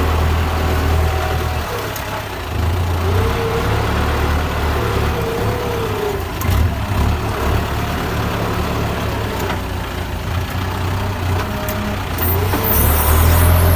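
Kubota tractor's diesel engine running under load while plowing, its low drone wavering in strength and growing louder near the end.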